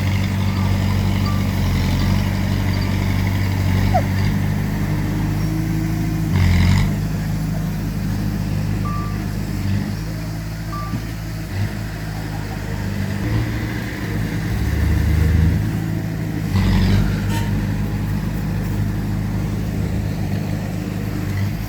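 Heavy diesel earth-moving machinery running steadily, with the engine note surging louder briefly twice.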